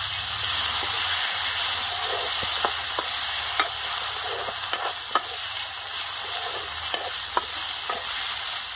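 Sliced onions and tomatoes with spices sizzling in oil in a steel wok, stirred with a metal ladle that scrapes and clinks against the pan now and then.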